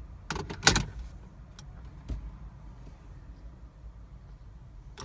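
A few sharp clicks and knocks inside a car, the loudest just under a second in and a fainter one near the end, over a low steady rumble.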